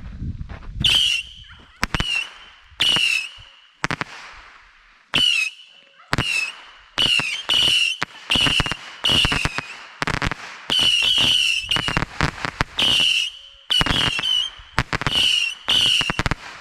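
Saturn missile battery firing a rapid string of small whistling rockets, about twenty of them, each a short whistle with sharp pops and cracks at roughly one to two a second. The whistles and bangs are loud.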